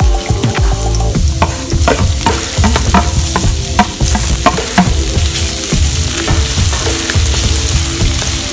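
Minced garlic and onions sizzling in hot oil in a metal wok, with a wooden spatula scraping and knocking against the pan as they are stirred.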